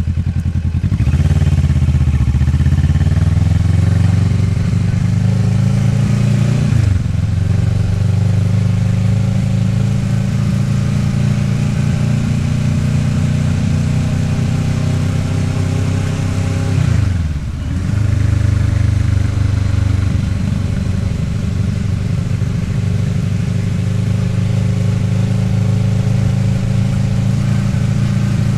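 Kawasaki Ninja 650R's parallel-twin engine pulling under acceleration, its pitch rising for several seconds and then dropping sharply at a gear change about seven seconds in. The pitch dips sharply and recovers again around seventeen seconds, then holds steady at a cruise.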